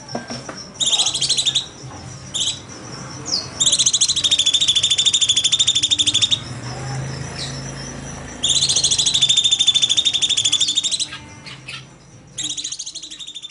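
Cucak cungkok singing its rapid-fire "tembakan" trill, fast high buzzing rattles delivered in four bursts. The longer bursts last about two and a half seconds, with short calls between them.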